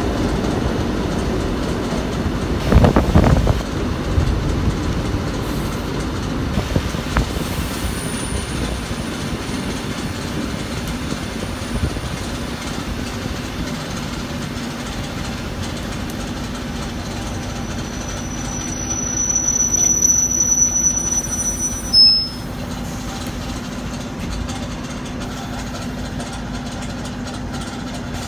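ET2 electric train running along the track, heard from the cab: a steady rumble of wheels on rail, with a cluster of knocks about three seconds in. A high-pitched wheel squeal starts about nineteen seconds in and cuts off sharply about three seconds later.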